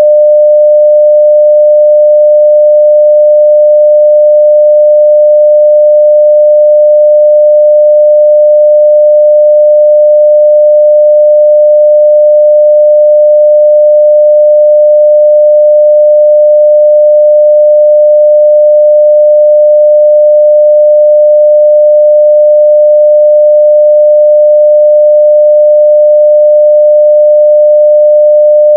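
A steady 600 Hz sine-wave test tone at full level, one pure pitch held without change.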